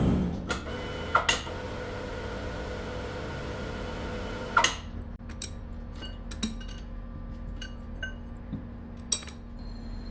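Workshop metal handling as the steel cylinder rod is taken out of the lathe: scattered metallic clinks and knocks over a steady mechanical hum. The hum stops with a loud clank about halfway through, and lighter clicks follow.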